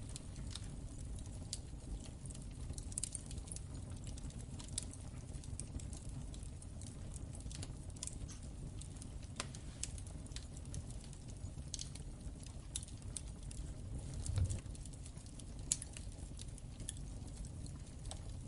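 Wood fire in a fireplace crackling, with irregular sharp pops over a steady low rumble of the flames, and a dull thump about two thirds of the way in.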